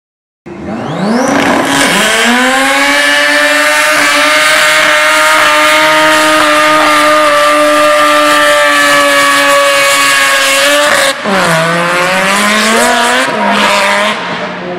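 A Mazda wagon's engine revs up hard and is held at high, steady revs during a burnout, rear tyres spinning in clouds of smoke. About eleven seconds in the revs drop, climb again, then fall away near the end.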